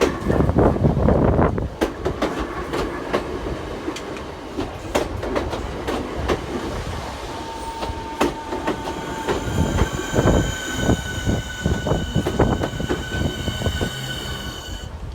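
Southeastern Class 465 Networker electric multiple unit running on the track, its wheels clacking over rail joints, loudest in the first couple of seconds. About nine seconds in, a steady high-pitched whine of several tones sets in and holds.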